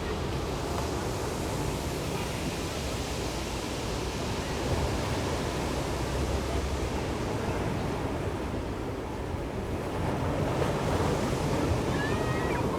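Ocean surf breaking and washing on the shore, a steady rushing that swells louder about ten seconds in.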